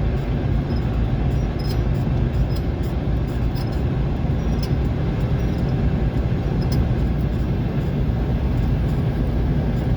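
Steady road and engine rumble of a moving vehicle heard from inside the cabin, with scattered faint clicks.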